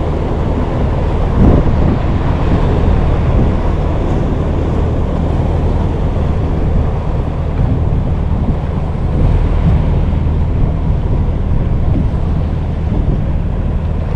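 Wind buffeting the microphone on an open boat, a steady low rumble, with water around the hull beneath it.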